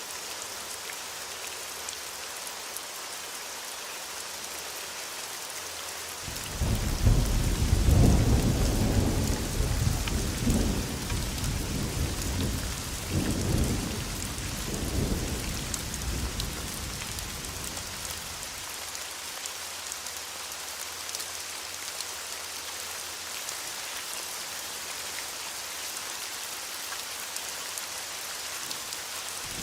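Steady heavy rain hissing, with a roll of thunder that breaks in suddenly about six seconds in, rumbles in several swells for around ten seconds and dies away, leaving the rain alone.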